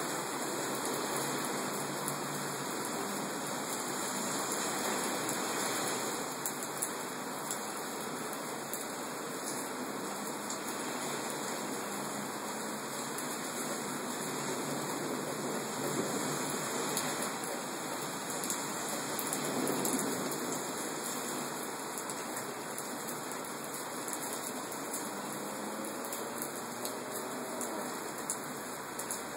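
Hard rain pouring down steadily, a continuous hiss of rain with scattered sharper drop ticks.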